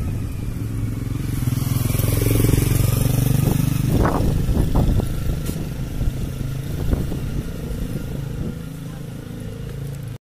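A motor vehicle's engine passing close by, growing louder over the first few seconds and then slowly fading away.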